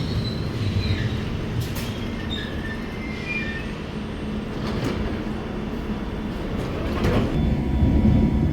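London Underground tube train running with a steady low rumble. Its wheels squeal thinly in the first few seconds, and a few sharp knocks come from the track. The rumble grows louder near the end.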